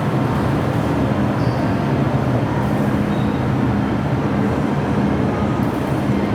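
MTR M-Train electric multiple unit running along the track, a steady rumble with a constant low hum.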